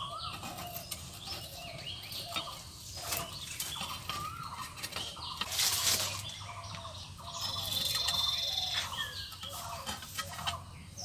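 Birds calling and chirping, many short rising and falling calls, with a held high call about eight seconds in and a brief hiss near six seconds.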